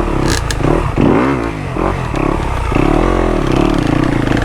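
Dirt bike engine revving up and falling back twice while working through a deep muddy hole, with a brief rattle shortly after the start.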